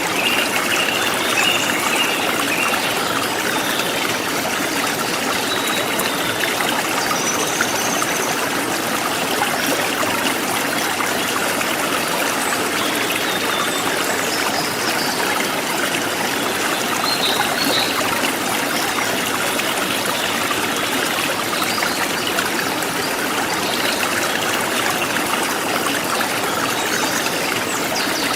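Forest stream flowing steadily, a continuous rushing trickle of water, with a few faint high bird chirps over it.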